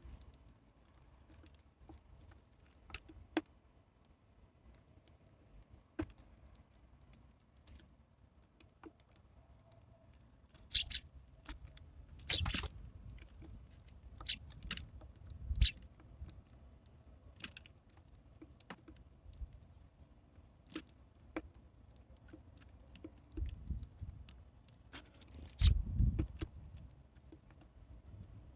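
Birds pecking and cracking seeds on a bird feeder close to the microphone: irregular sharp clicks and taps, with a few louder knocks and scrapes.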